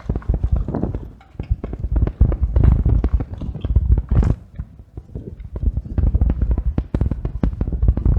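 Rapid, irregular rattling and knocking from a camera carried on a moving bicycle, jolted by the ride, over a heavy low rumble of wind on the microphone.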